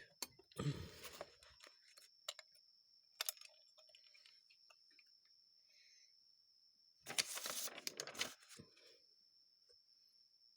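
Faint clicks and clinks of small metal carburetor linkage parts being handled on a workbench, with two louder bursts of rummaging, one about half a second in and one around seven seconds in. A faint steady high-pitched whine runs underneath.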